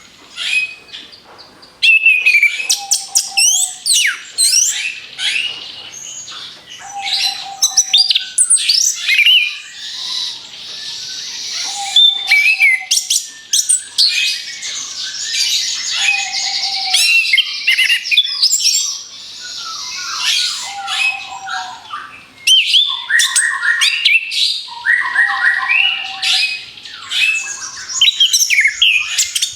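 Orange-headed thrush singing without pause: a dense stream of varied whistled phrases and rapid strings of sharp high notes, with a short lower note repeating about every two seconds.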